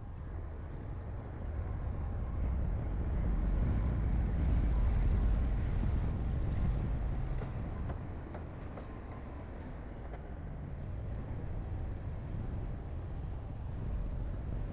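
Heavy diesel earthmoving machinery running, a low engine rumble that swells for several seconds and then eases back.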